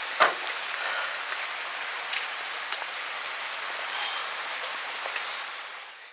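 Bonfire crackling steadily, with scattered sharp pops and one loud snap just after the start, fading out near the end.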